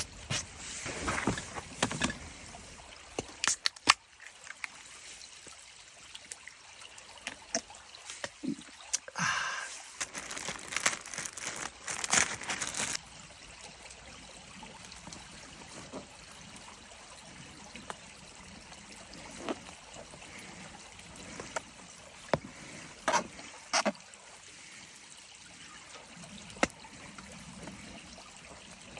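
A small stream trickling steadily, with scattered crunches and knocks in the first dozen seconds and a few sharp clicks later on.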